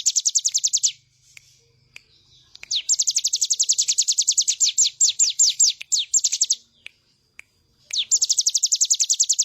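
Ciblek gunung (a mountain prinia) singing in three fast, rapid-fire trills of quick downward-slurred notes, with short pauses between them. The notes slow slightly near the end of the middle trill.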